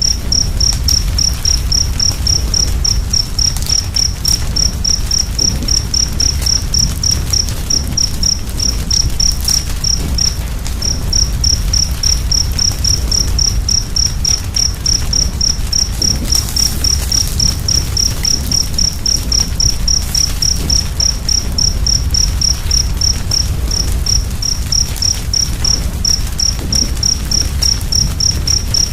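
A cricket chirping steadily at about four to five chirps a second, with one short pause about ten seconds in, over a steady low rumble and a few faint crackles of an open fire.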